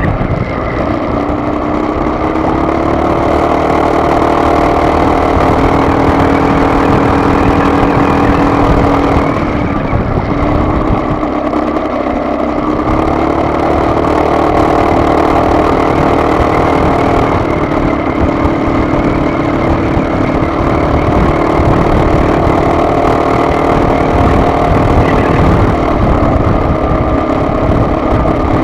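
A car driving: its engine running steadily over a dense low road rumble. The engine's pitch changes twice, about ten and about eighteen seconds in.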